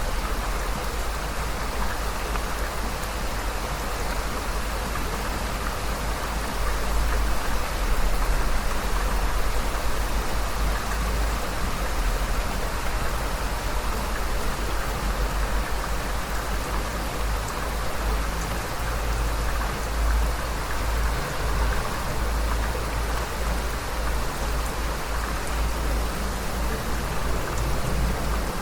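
Heavy rain falling steadily, a dense even hiss of drops with a strong low rumble underneath.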